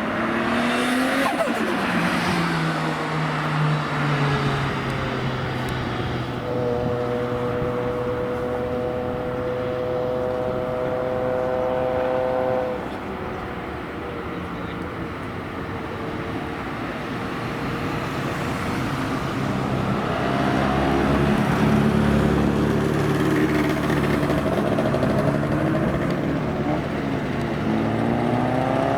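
Car engine running at speed: its note drops at the start, holds steady for several seconds, then rises and falls again in the last third, as with revving through gear changes.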